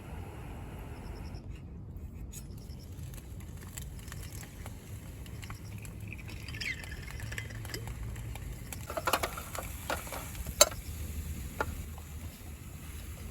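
A scattering of sharp clicks and knocks, thickest and loudest around nine to eleven seconds in, with a short squeaky glide a little earlier, over a steady low rumble.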